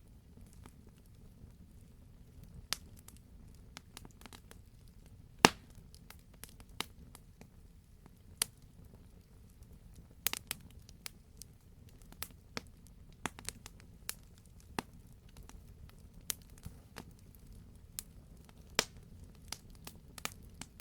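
Wood fire burning in a fireplace: a soft steady low rush of flame with irregular sharp crackles and pops, one loud pop about five seconds in.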